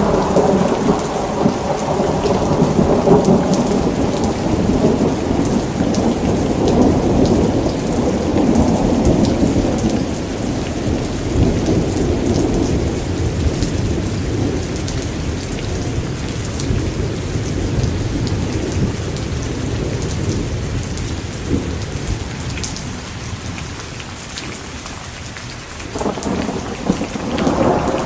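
Rolling thunder over steady rain. A long rumble starts heavy and slowly dies away, then a new rumble builds near the end.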